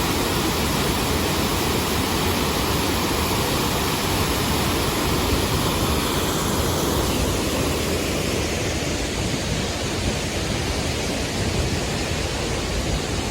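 Steady, loud rush of water falling and splashing in a restored city stream.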